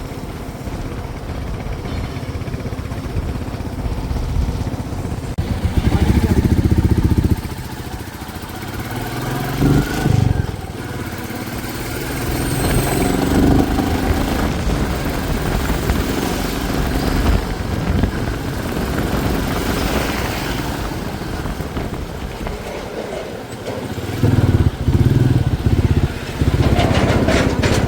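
A motor vehicle running along a road, its engine and road noise steady, with louder low rumbling swells about six seconds in, around ten seconds and again near the end.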